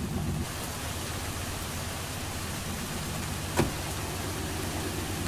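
Steady rain falling, an even hiss, with a single sharp click about three and a half seconds in.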